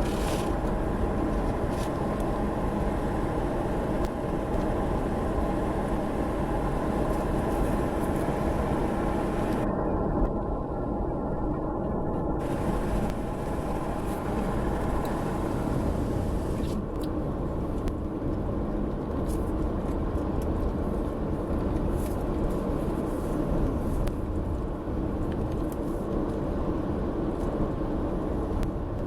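Car driving on the road, with steady road and engine noise heard inside the cabin.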